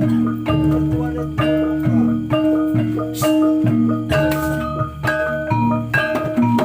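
Javanese gamelan accompaniment for a kuda lumping trance dance: metallophone notes struck about twice a second over a steady held tone.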